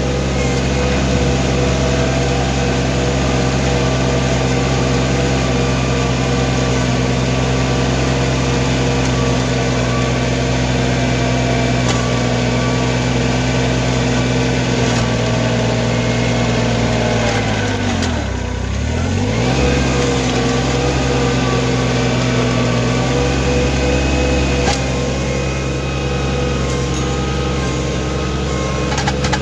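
Diesel engine of an LS MT225HE 25 hp hydrostatic compact tractor running steadily at working speed while pushing snow with the loader bucket. About two thirds of the way through, the engine speed drops sharply and recovers within a couple of seconds.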